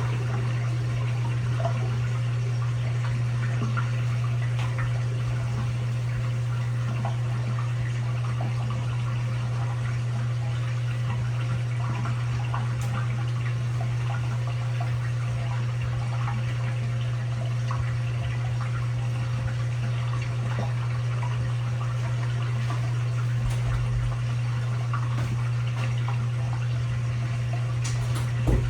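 LG WT7600HVA top-load washing machine partway through a normal cycle: water running inside the drum over a steady low hum. There is a short knock near the end.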